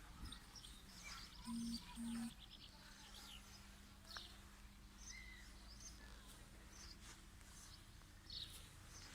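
Two short horn toots from a G-scale garden railway locomotive's sound module, about a second and a half in, followed by a faint steady hum, while birds chirp.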